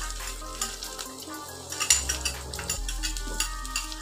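Bottle gourd leaf paste and broken dried red chillies sizzling in hot mustard oil in a kadai, with a few sharp clicks of a utensil against the pan about halfway through.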